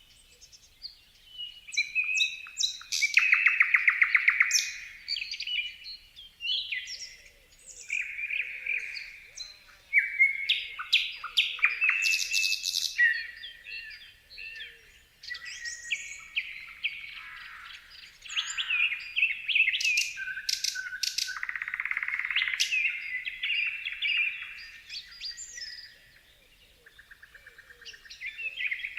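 Songbirds chirping and singing in many short, overlapping calls, whistled phrases and fast trills, with brief lulls between bursts.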